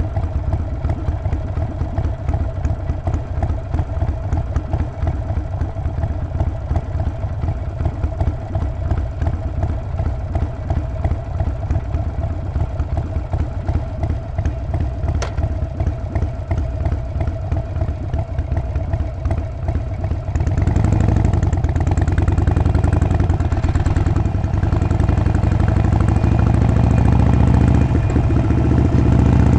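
Harley-Davidson Sportster 48's 1200 cc V-twin engine and exhaust running under way, steady for most of the stretch. About two-thirds of the way through it gets louder, its pitch rising and falling as the throttle is opened.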